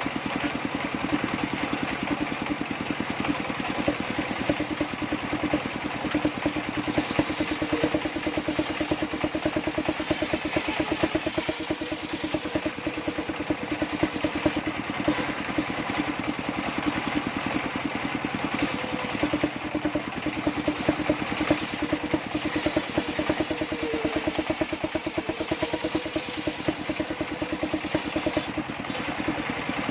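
Circular saw table machine running steadily with an engine-like sound and a fast, even pulse.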